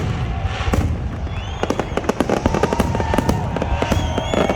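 Fireworks crackling and popping in rapid, dense succession, with a steady held tone joining about halfway through.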